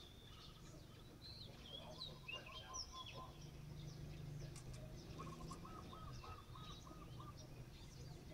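Faint chirping and twittering of several small birds, with one bird giving a quick run of about eight repeated notes about five seconds in, over a low steady hum.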